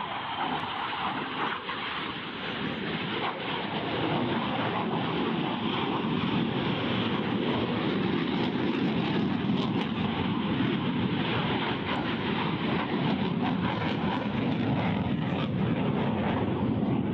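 Fixed-wing aircraft engine noise, a dense steady rush that builds over the first few seconds and then holds.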